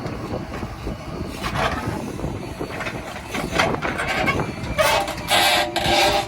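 Diesel engine of a JCB 3DX backhoe loader running, with a low rough rumble and scattered knocks. About five seconds in, a loud pitched sound comes three times in quick succession.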